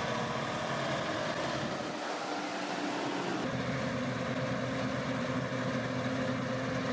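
Harvest machinery engine running steadily, its tone shifting suddenly about three and a half seconds in.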